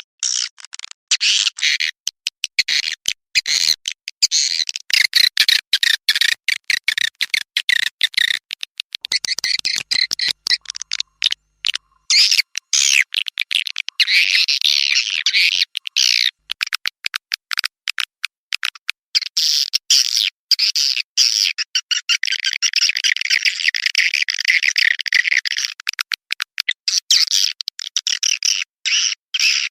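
Recorded swiftlet calls played as a lure for a swiftlet house: dense, rapid, high-pitched chirping and twittering in quick spurts, with longer unbroken stretches of chatter partway through and in the second half.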